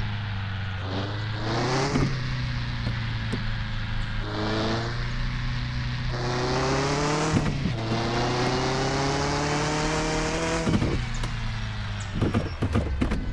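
Car engine accelerating hard, its pitch climbing and then dropping at each of several gear changes. A few sharp knocks follow near the end.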